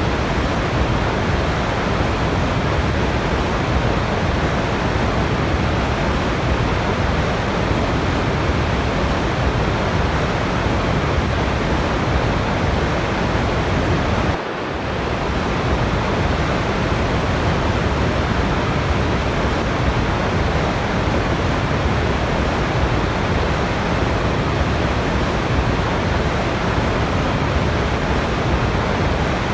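Waterfall water rushing in a steady, even roar with no distinct splashes or changes. About halfway through it briefly drops in level, then comes back up within a second or two.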